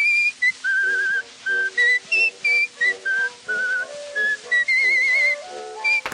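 A tune whistled with vibrato: short and held notes stepping up and down, over a soft instrumental accompaniment.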